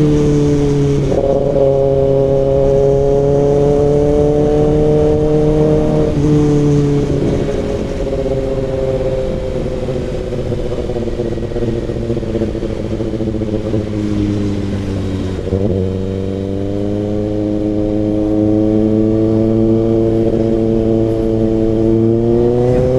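Kawasaki ZX-6R inline-four running through an SC-Project CRT exhaust while being ridden: a continuous engine note that rises and falls gently with the throttle. The pitch steps up about a second in, shifts again around six or seven seconds in, eases down, then rises again about fifteen seconds in and near the end.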